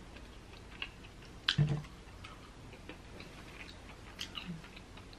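Sparse, quiet clicks and small crunches of a person chewing fried chicken close to the microphone, with one louder click and a short low thud about a second and a half in.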